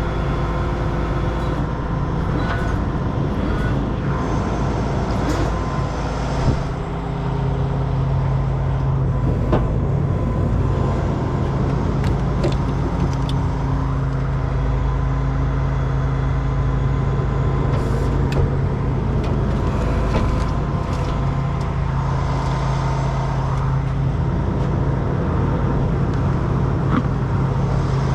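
Heavy truck diesel engine running steadily, its note growing stronger about seven seconds in, with scattered clicks and knocks over it.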